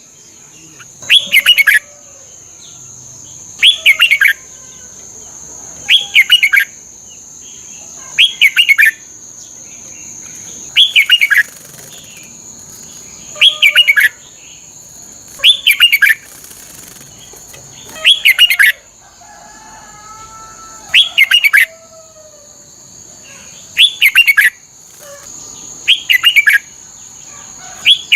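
Red-whiskered bulbul singing the same short, bright phrase of a few quick notes over and over, about every two and a half seconds. This is repeated song of the kind used as a lure and training call for caged bulbuls. A steady high-pitched whine runs underneath.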